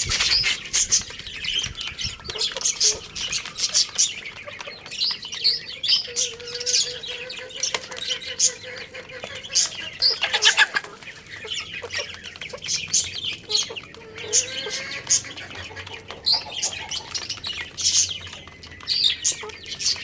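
Chicks chirping continuously in a dense chatter of short high peeps, with a hen's lower clucking calls now and then.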